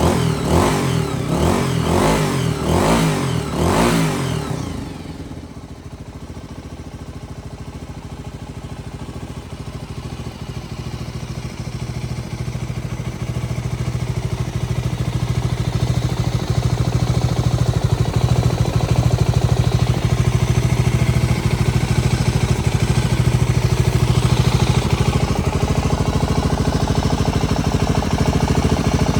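Honda GB250 Clubman's single-cylinder engine revved with several quick throttle blips, then dropping back to a steady idle that gradually grows louder and settles.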